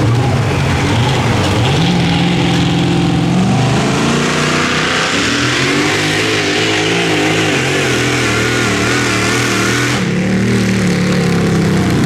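Super modified four-wheel-drive pulling truck's engine running hard at high revs during a pull. Its pitch climbs in steps in the first few seconds, then wavers up and down through the middle before settling again near the end.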